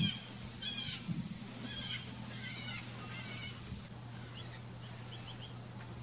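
Songbirds calling: a quick run of about five short, wavering, high-pitched call phrases in the first three and a half seconds, followed by a few short, sharp chips.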